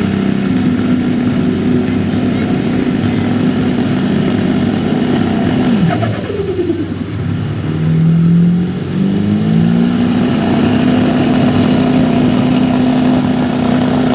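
1997 Ford F-350's turbocharged 7.3-litre Power Stroke diesel running hard at high revs under load on the pulling track, with a high turbo whistle rising and falling with the engine. About six seconds in the revs drop away, then climb back a couple of seconds later and hold steady.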